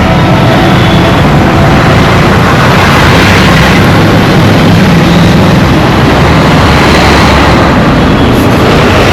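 Heavy road traffic heard up close: a loud, steady din of engines and road noise with a low hum underneath.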